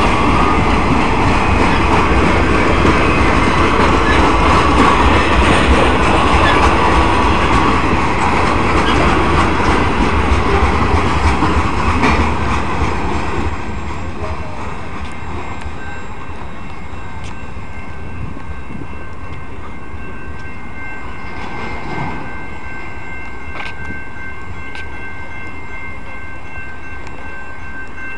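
Freight train cars rolling past at a grade crossing, a steady rumble and rattle of wheels on rail. About halfway through the noise drops off sharply, leaving quieter rolling sound with a few steady high-pitched tones.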